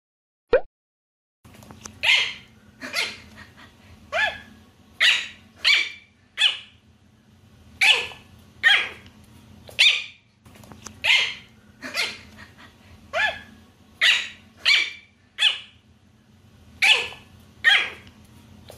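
A small dog barking over and over in short, sharp, high yaps, about one a second in loose runs, over a steady low background hum.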